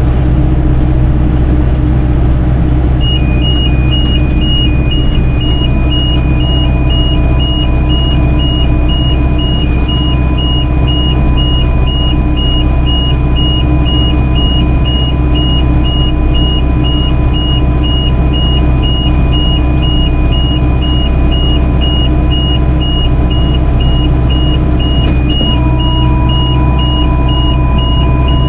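John Deere tractor engine running steadily while driving a hay baler through the field. A few seconds in, an electronic warning beep starts and repeats evenly, about twice a second.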